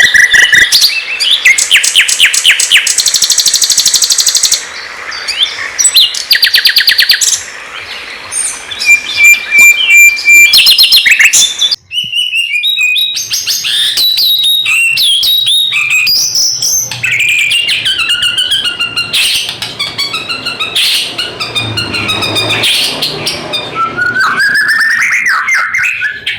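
Songbird song recorded as a tutor track: a sikatan londo flycatcher and a white-rumped shama (murai batu), with fast trills, rapid repeated chirps and whistled phrases. The song breaks off briefly about twelve seconds in and then goes on as a more varied run of whistles.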